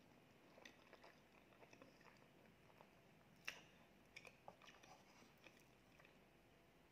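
Faint close-miked chewing of a soft cheesecake bite: small wet mouth clicks and smacks at an uneven pace, with one sharper click about halfway through.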